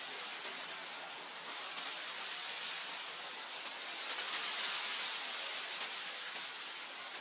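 Wind blowing across grassland: a steady hiss that swells in gusts, strongest about four to five seconds in.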